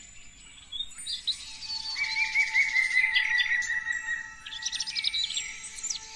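Several songbirds singing at once, with overlapping chirps and trills; a rapid warbling trill starts about two seconds in and a burst of quick high notes comes near the end.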